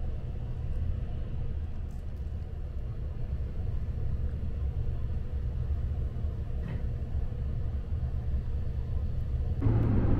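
Steady low hum inside a stopped Sunrise Express sleeper-train carriage, from the train's onboard equipment. About nine and a half seconds in, it gives way to the louder, fuller running noise of the train under way.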